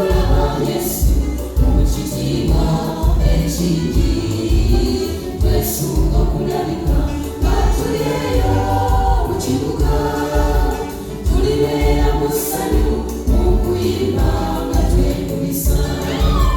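Choir singing gospel music over a steady low bass beat.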